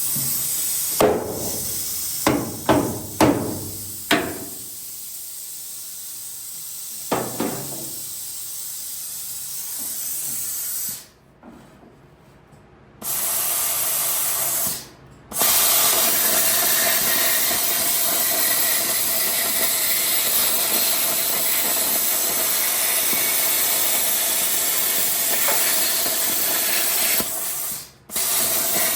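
A handful of sharp metallic knocks, then a plasma cutter hissing steadily as it cuts the rusted sheet-metal bed of a 1960 Ford F100. The cut stops and restarts a few times.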